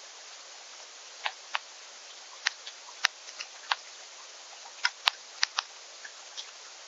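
Birds pecking and cracking seed at a feeder: irregular sharp taps and clicks, some in quick pairs, over a steady hiss.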